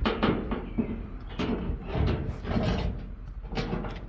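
Loose steel fender panel clanking and banging against the car body as it is handled and fitted, a run of sharp metallic knocks with some ringing.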